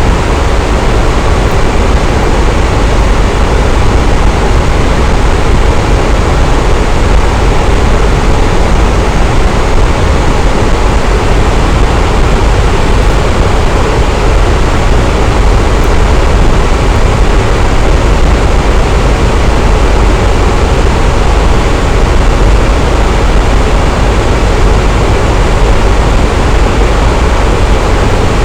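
Electric fan running steadily: an even, unbroken rush of noise, strongest in the low end, with no change in speed.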